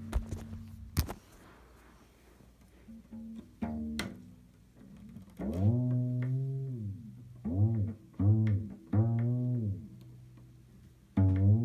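Cello sounding low notes that swoop up in pitch at the start and slide down as they end, five in all: one longer note, three short ones close together, then another near the end. This is a weird noise found while tuning. A few sharp clicks come in the first second.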